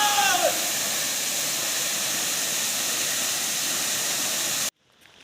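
Steady roar of a tall waterfall's falling water, an even hiss heavy in the high pitches, with a short falling pitched tone over it in the first half second; it cuts off suddenly near the end.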